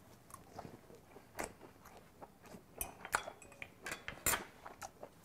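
Chewing a bite of grilled hanwoo ribeye cap (saeusal): soft, irregular wet mouth smacks and clicks, with a few louder ones past the middle.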